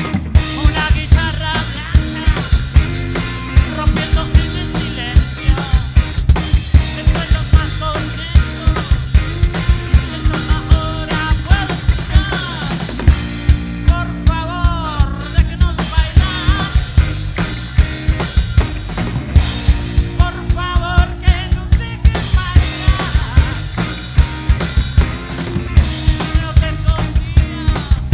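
A band playing music driven by a drum kit, with a steady run of kick and snare hits over a bass line, and bending melodic lines above them.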